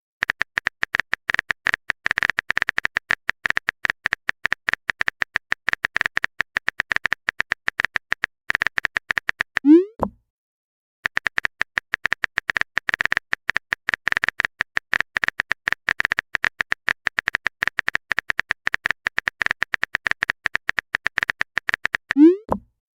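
Typing sound effect: fast, continuous clicks of a phone or keyboard, in two long runs. Each run ends in a short rising 'bloop', the sound of a message being sent, once about ten seconds in and again near the end.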